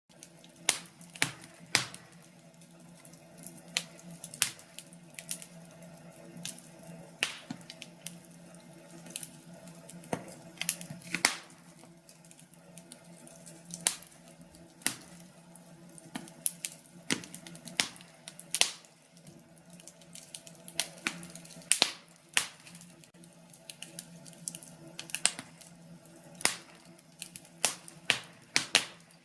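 Wood fire crackling in a fireplace: irregular sharp pops and snaps, one or two a second, over a faint steady hum.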